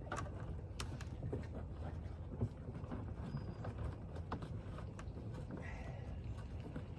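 Kayak gear being handled and fitted: scattered light clicks and knocks over a low steady rumble.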